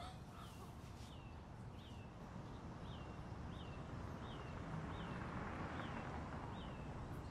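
A bird calling over and over, one short high note sliding downward each time, repeating roughly every two-thirds of a second. Behind it is a steady low background hiss of open-air ambience.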